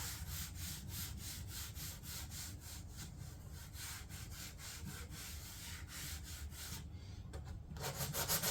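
Sandpaper rubbed back and forth by hand over a fiberglass door panel, about two to three strokes a second. The strokes stop for about a second near the end, then start again.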